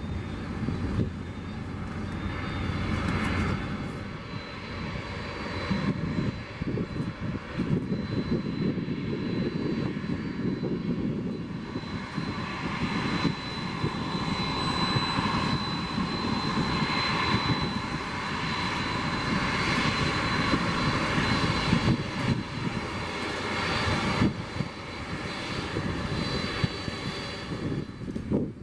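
Jet airliner's engines running steadily, a broad rushing noise with a thin high whine. It grows louder toward the latter part, then eases slightly.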